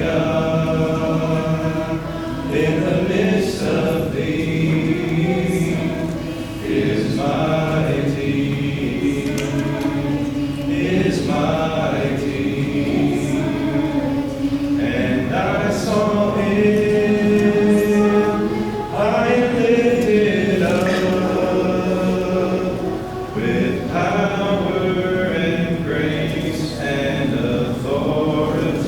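A congregation of men's and women's voices singing a hymn a cappella, with no instruments, in long held phrases.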